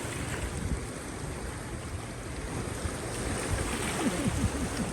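Sea surf and wind noise on the microphone, a steady low rumbling wash. A few faint wavering tones come in near the end.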